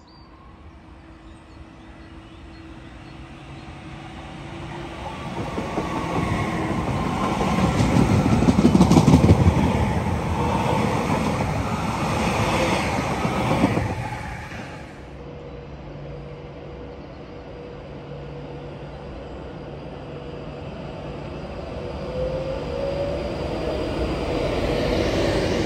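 A TransPennine Express train running past the platform on the West Coast Main Line, its rumble swelling to loudest about nine seconds in and cutting off sharply about fourteen seconds in. Then comes the hum of an Avanti West Coast Class 390 Pendolino electric train alongside the platform, with a rising whine and growing louder near the end.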